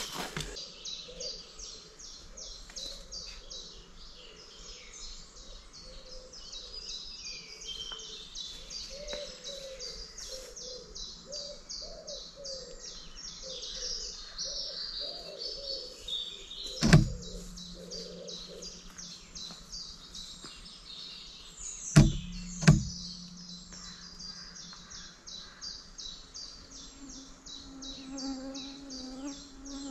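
Woodland birdsong: rapid, evenly repeated high chirps, with softer lower warbling in the first half. Three sharp knocks cut through, one just past halfway and two close together about three-quarters through.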